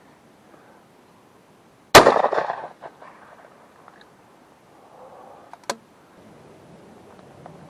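A single shotgun shot about two seconds in, its report dying away over most of a second. A much quieter sharp click comes about four seconds later.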